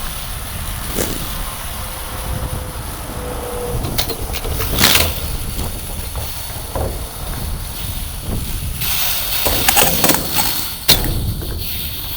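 Heavy tow truck's engine running low and steady, with a few sharp knocks about a second in, about five seconds in and near the end.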